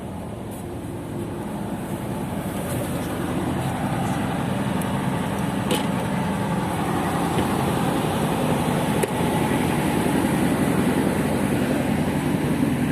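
Motor launch's engine running steadily on the river: a low, even drone with rushing noise that grows gradually louder, and one sharp click a little before the middle.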